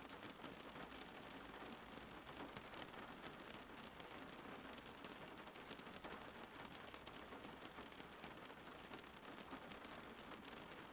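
Faint, steady rain falling: a continuous hiss with many small drop ticks scattered through it.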